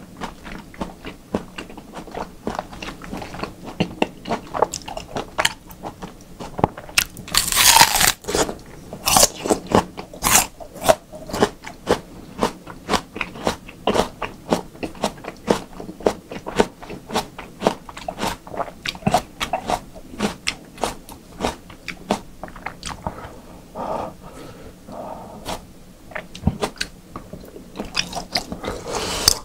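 Close-miked wet chewing and mouth clicks of someone eating raw beef, with steady sharp smacks all through and a louder burst about eight seconds in.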